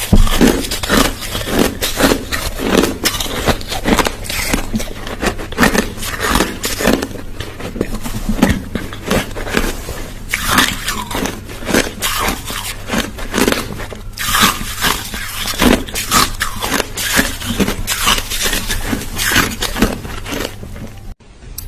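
Crushed ice being chewed close to the microphone, a loud, continuous run of crunches one after another. It breaks off for a moment near the end.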